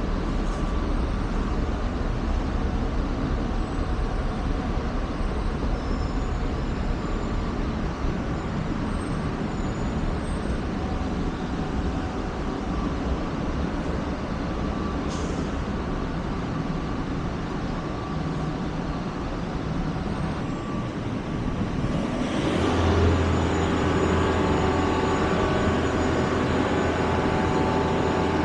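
A motor or engine running steadily. About 22 seconds in it grows louder, settling into a steady low hum with higher tones over it.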